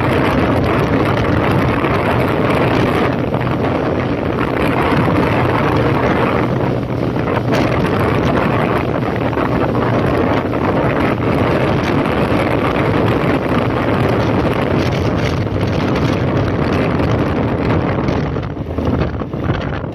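Wind rushing over the microphone with a 2005 Honda CB1300's inline-four engine running underneath at riding speed. The wind noise eases briefly near the end.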